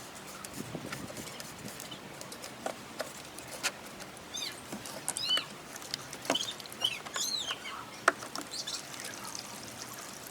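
A bird chirping several times in quick arched calls through the middle, over scattered small clicks and knocks of handling, with one sharp click shortly before the end.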